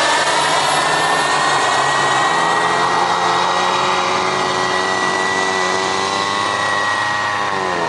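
KingTech K80F model turbojet of an RC Tornado jet flying past with a steady high whine, its pitch dropping sharply near the end as it passes and moves away.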